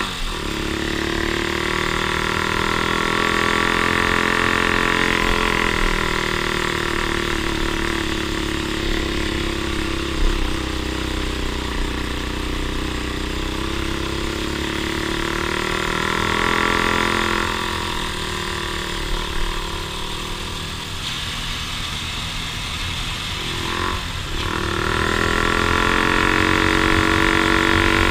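An off-road vehicle's engine running on a trail under changing throttle, its pitch rising and falling several times as it revs up and eases off.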